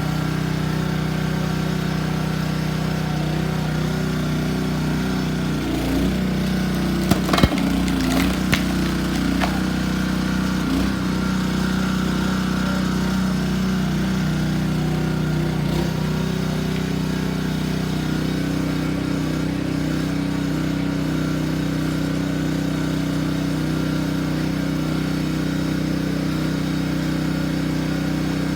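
Honda gasoline engine on a log splitter running steadily. Between about 6 and 9 seconds in, a few sharp knocks sound and the engine note shifts slightly.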